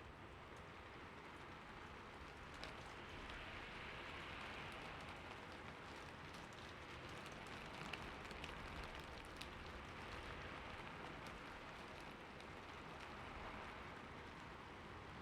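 Steady rain falling on a forest, an even hiss with scattered individual drops ticking on a surface, the clearest about 2.5 and 8 seconds in.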